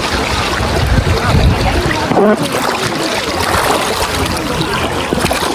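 Water sloshing and splashing in a water park pool, with a steady low rumble and a hubbub of voices in the background.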